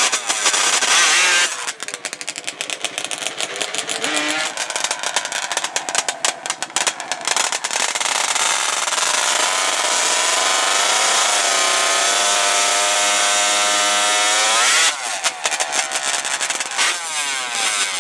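Racing ATV engines revving in short, choppy bursts, then one engine accelerating hard, its pitch climbing steadily for several seconds before it stops abruptly about fifteen seconds in.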